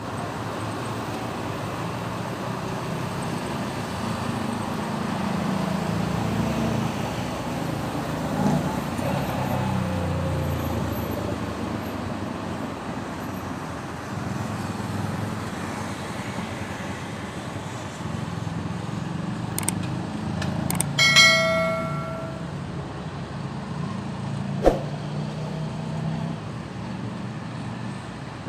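City road traffic: vehicle engines and tyres making a steady low rumble, with one car horn honking for about a second roughly three quarters of the way through, and a few sharp clicks and a knock.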